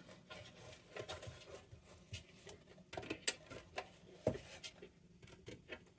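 Faint, scattered small clicks and taps of the metal parts of a kerosene lantern being handled and turned, a couple of sharper ticks about three and four seconds in.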